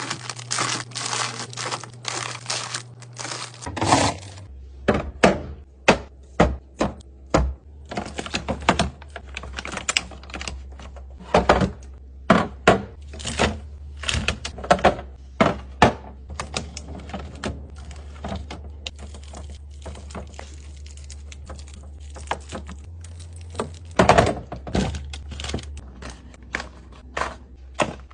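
Items and plastic containers being set down and arranged on refrigerator shelves: an irregular run of knocks, clicks and thunks, with a louder clatter about four seconds in and again near twenty-four seconds.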